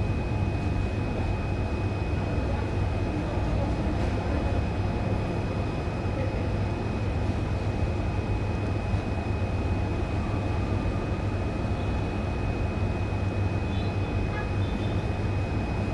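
Steady low rumble with a thin, steady high tone above it, unchanging throughout; a few faint canary chirps come in near the end.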